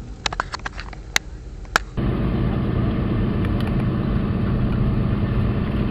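A few sharp clicks, then from about two seconds in a car engine running steadily and evenly.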